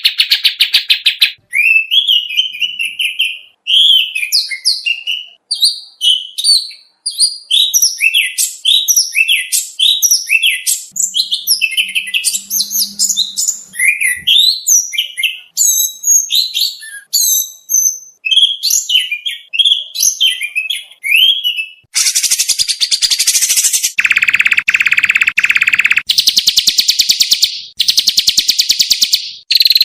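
Recorded songbird song from a magpie-robin mastering track: a run of varied short chirped and whistled phrases, then fast, dense rattling trills over the last several seconds.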